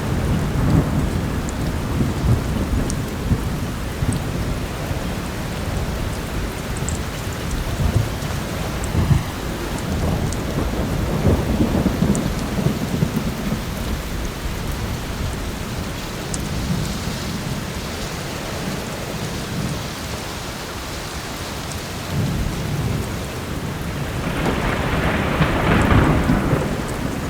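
Heavy rain falling steadily with rolling thunder rumbling low throughout, and a louder thunder roll building about three-quarters of the way in. Faint, occasional crackles of a wood fire sound over it.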